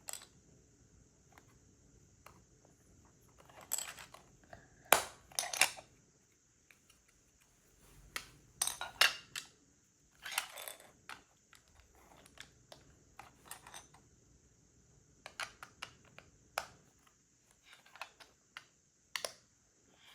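Lego plastic bricks being handled: irregular clicks and short bouts of clattering as pieces are picked up, sorted and pressed together.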